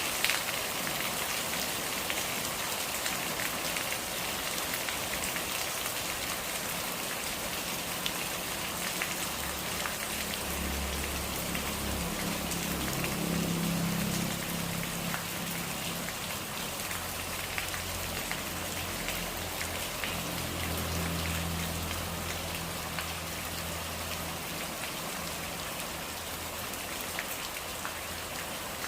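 Steady rain, with many individual drops ticking close by over a dense hiss. A low rumble swells in about a third of the way through and fades out later.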